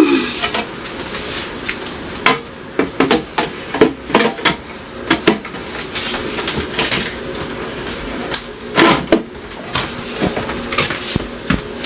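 Irregular knocks and clatter of containers and dishes being handled and set down, some with a brief ring.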